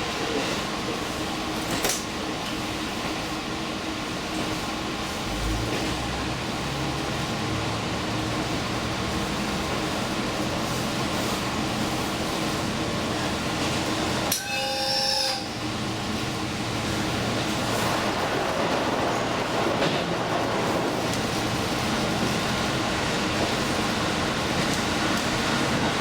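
Diesel limited express train running, heard from on board: a steady rumble and rail noise. Near the middle comes a brief pitched sound lasting about a second.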